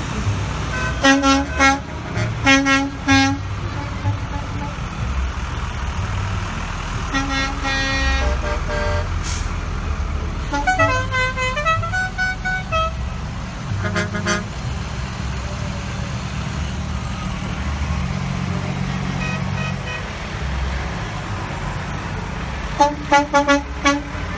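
Truck horns honking in clusters of short toots, with a wavering, pitch-sliding horn tone near the middle, over the steady low rumble of passing truck engines.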